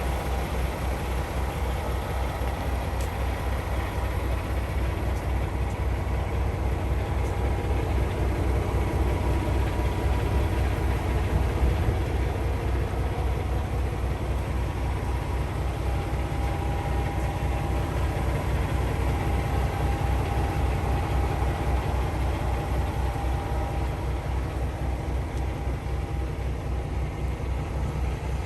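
Paccar MX-13 inline-six diesel engine of a Kenworth T680 truck idling steadily, with an even low pulsing rhythm.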